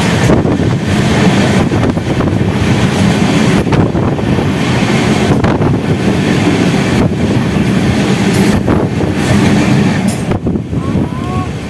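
Passenger express train running at speed: a loud, steady rumble of wheels on the rails, with recurring clacks from the track.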